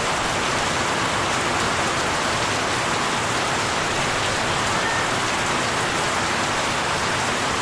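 Heavy tropical downpour: rain falling hard and steady on surfaces.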